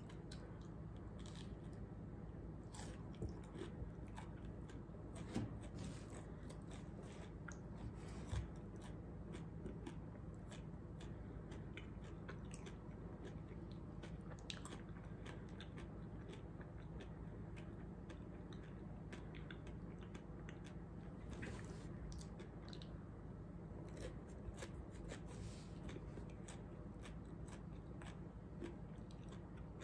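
Faint chewing and crunching of a crunchy super-hot snack in the mouth, a run of small irregular crunches with a few louder ones in the first ten seconds.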